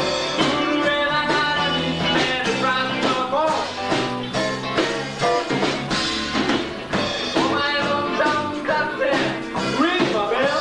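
Live rock band playing: electric guitars, bass guitar and drums, with pitch-bending melodic lines over a steady beat.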